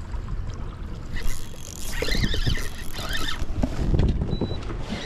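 Water splashing and dull knocks against a kayak hull as a fish is brought alongside. The splashing is irregular and heaviest in the middle, with deep thumps about two and four seconds in.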